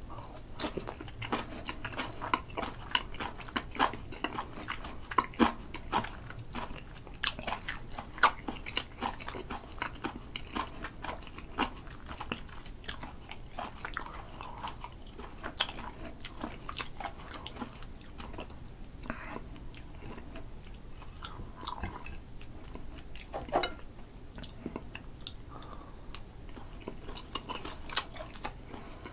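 Close-miked chewing of a mouthful of grilled sea eel in spicy sauce wrapped with pickled ginger. Wet mouth clicks and bites come thick in the first half and thin out later.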